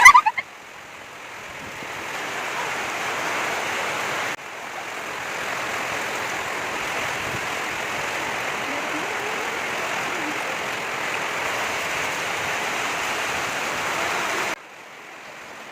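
Heavy rain pouring down in a steady hiss, with abrupt jumps in level about four seconds in and again near the end.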